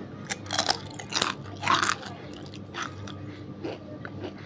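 Crisp chips (keripik) being bitten and chewed: three loud crackling crunches in the first two seconds, then a few softer chewing crunches.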